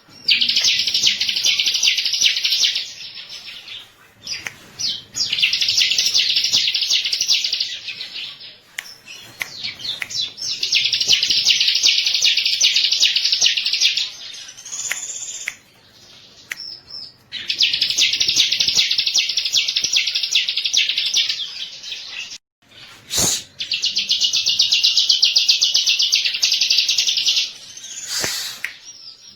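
Bar-winged prinia (ciblek) singing: five bouts of rapid, high, trilled chatter, each a few seconds long, separated by short pauses.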